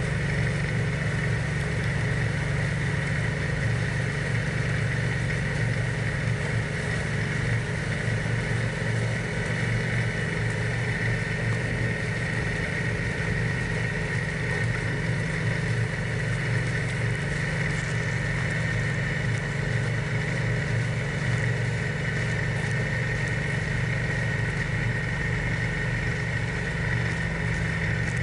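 John Deere 4110 compact tractor's small three-cylinder diesel engine running steadily, with a steady high-pitched whine over it.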